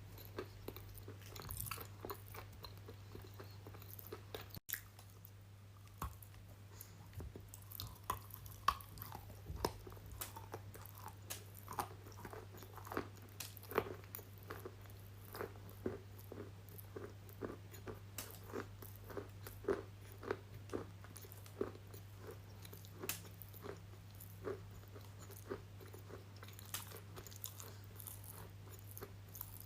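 Close-miked ASMR eating: many irregular crunchy bites and chewing, over a steady low hum.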